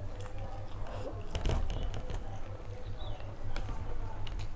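Close-miked chewing and wet mouth sounds of someone eating rice and curry by hand, with scattered sharp smacks and clicks, the loudest about a second and a half in. A low steady hum runs underneath.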